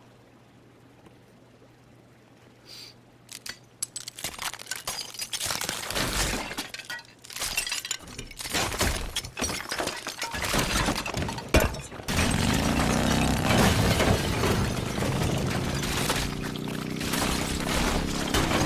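Glass shattering and debris clattering in a long crash, followed by a motorcycle engine running loudly, its pitch slowly rising.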